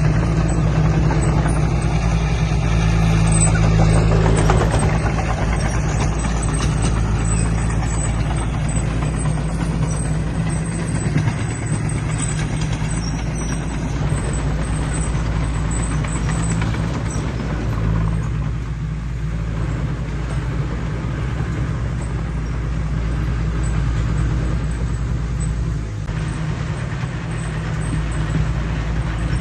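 Heavy diesel engine of earthmoving machinery running steadily at working speed, with small rises and falls in load.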